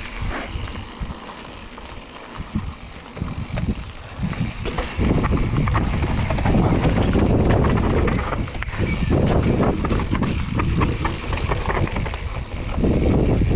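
Mountain bike descending a downhill trail: wind buffeting the action camera's microphone, tyres running over dirt and roots, and the bike rattling with many short clicks and knocks. It is quieter for about the first five seconds, then louder as the speed builds.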